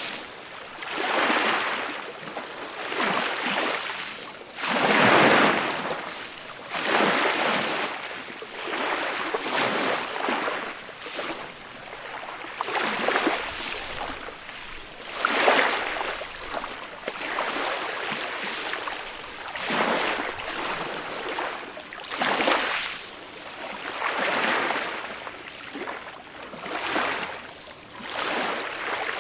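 Small ocean waves breaking and washing up a beach, one soft rush every two to three seconds. Two surges are louder, about five seconds in and near the middle.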